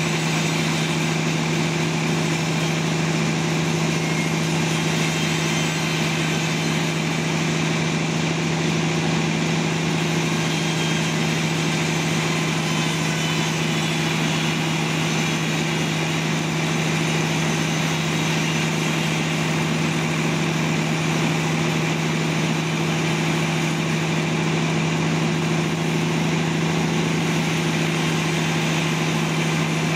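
Sawmill's motor running steadily: a constant hum with a strong low tone that holds the same pitch and level throughout.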